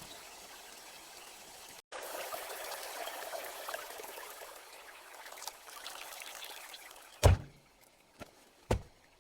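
Water trickling and pouring, broken off for a moment about two seconds in, then two dull thumps near the end, the first the louder.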